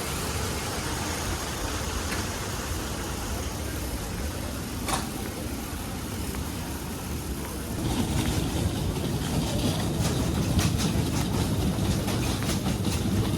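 Steady engine rumble with a haze of noise that grows louder and deeper about eight seconds in, with a few light clicks.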